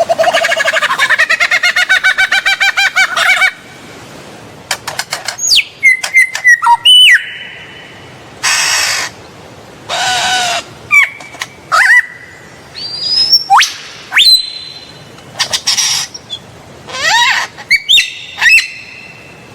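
A bird calling: a fast chattering trill in the first few seconds, then a string of sharp whistles that swoop up and down in pitch, broken by harsh screechy calls.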